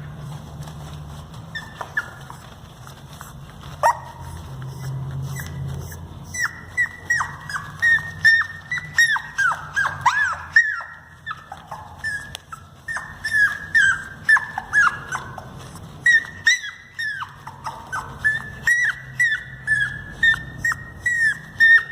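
Pomeranian puppy yipping: a long run of short, high calls that drop in pitch, several a second, starting about six seconds in with brief pauses.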